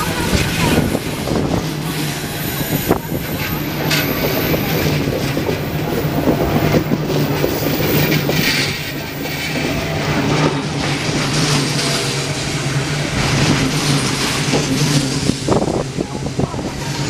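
Passenger train coaches rolling past at close range in a steady, continuous rumble, the wheels clattering over the rail joints.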